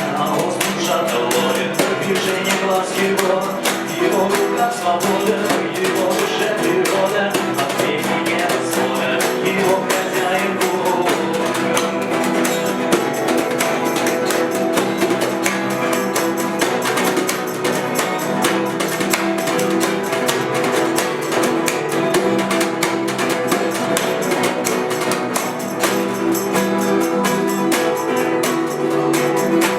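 Live acoustic band playing: strummed and plucked acoustic guitars over steady hand percussion, with no lyrics made out by the speech recogniser.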